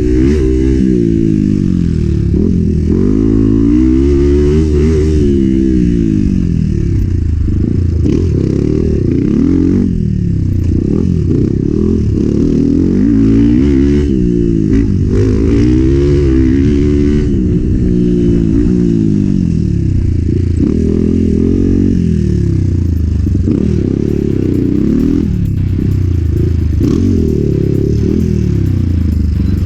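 Enduro motorcycle engine being ridden hard, revving up and dropping back over and over as the rider works the throttle through the course.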